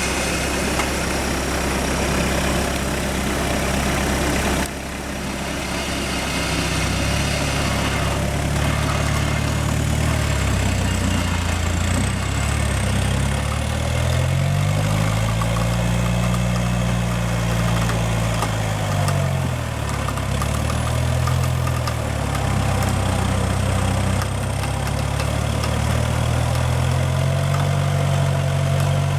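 An off-road 4x4's engine running, its revs rising and falling several times as it is driven. About five seconds in, the sound changes abruptly.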